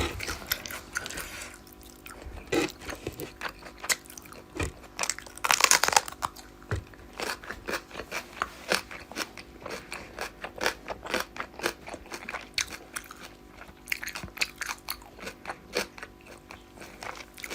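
A person chewing and biting food close to the microphone: a steady run of small crisp crunches, with a louder crunch about six seconds in.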